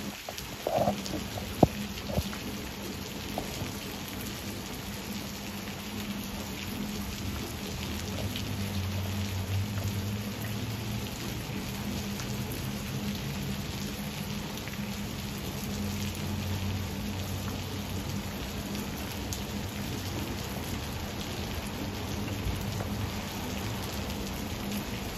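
Rain falling steadily, a continuous hiss with a few sharp drop ticks in the first couple of seconds. A low rumble swells and fades a few times underneath.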